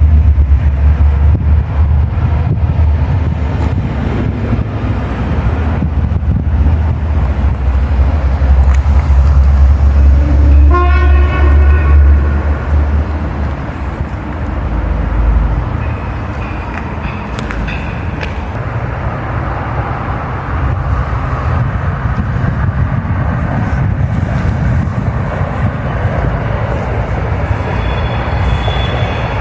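Train running past with a heavy low rumble, its horn sounding once for about a second and a half around the middle.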